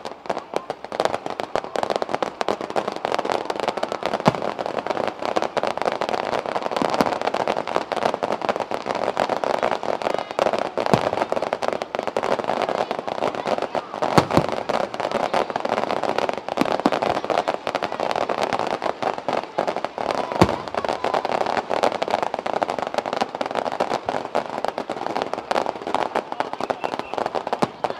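Fireworks display going off without a break: a dense run of crackling pops and bangs, with a few louder bursts standing out about 4, 11, 14 and 20 seconds in.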